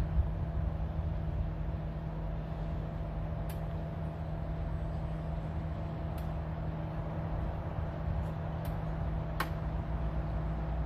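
Vehicle engine running at a steady speed, with a few sharp clicks or ticks on top.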